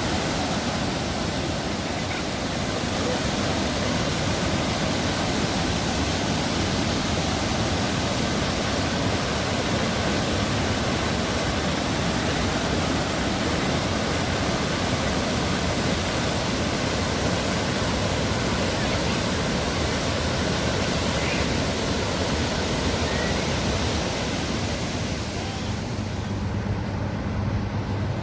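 Waterfall: a steady, dense rush of falling water. About 26 seconds in it turns duller, the high hiss falling away while a low steady hum comes in.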